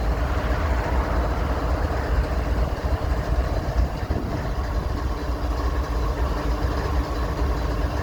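CSX diesel locomotives idling: a steady low rumble with a faint hum.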